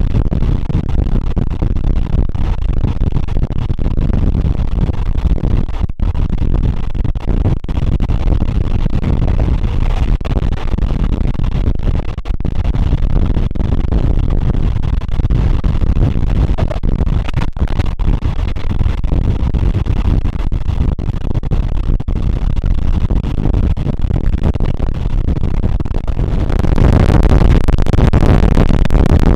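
Train running on the rails, heard from on board: a steady low rumble. About 26 seconds in it gets louder and hissier.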